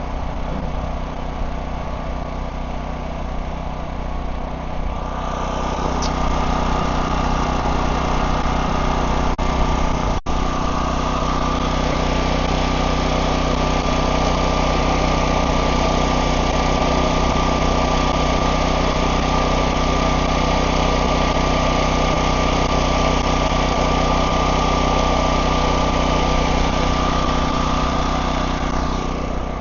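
An engine idles steadily throughout. About five seconds in, a louder, even hissing sound with a steady high whine starts over it and runs until near the end, and there is one sharp click partway through.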